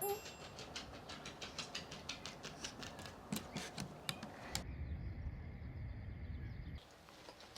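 Japanese Chin puppy's claws ticking and pattering on the floor as it scampers about: quick light clicks, several a second, with a dull low rumble for about two seconds past the middle.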